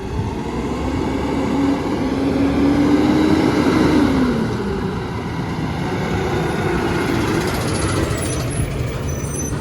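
Heavy truck's engine revving up over about four seconds, then easing back and running on steadily.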